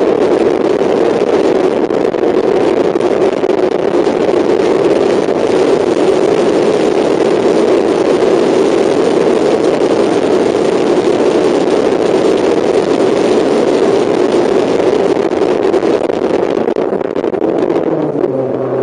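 Mazda MX-5 race car's four-cylinder engine running hard at steady revs on track, heard onboard with a constant rush of noise over it. The engine note dips slightly near the end.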